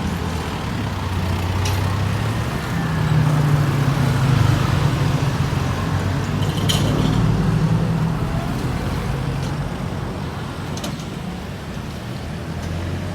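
A motor vehicle's engine running with a low steady hum, growing louder a few seconds in and then easing off, against traffic noise, with a few faint clicks.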